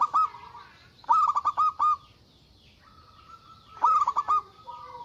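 Zebra dove (perkutut) cooing: three bursts of quick staccato notes, near the start, about a second in and about four seconds in, with fainter drawn-out coos between them.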